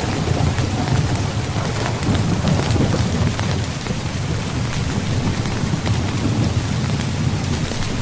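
Steady rain falling on a tent, with many separate drops ticking on the fabric over a continuous low rumble.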